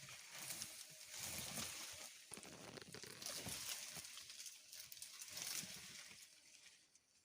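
Soil being scraped and dug with a hand tool to level the ground: irregular rough scraping strokes with small knocks, fading near the end.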